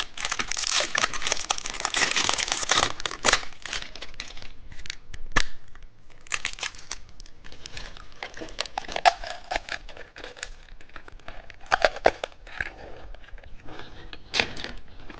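Plastic candy wrapper crinkling and tearing as a car-key-shaped candy is unwrapped. The crinkling is dense for the first three seconds, then breaks into scattered crackles and clicks.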